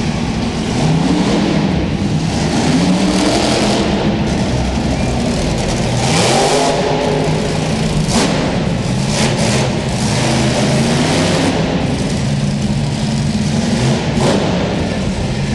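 Monster truck engine revving hard over and over, its pitch climbing and falling, with a few short sharp bangs through it.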